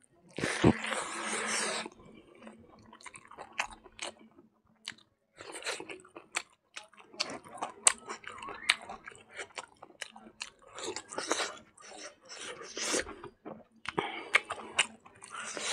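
A person chewing a mouthful of rice and silkworms close to the microphone: wet crunching and lip smacks in short, irregular bursts. There is a louder, noisier burst near the start as the handful goes into the mouth.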